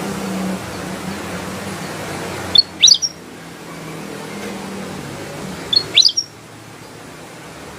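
Kutilang emas, a bulbul, calling in two short bursts of quick, sharp high notes about three seconds apart, over a steady hiss.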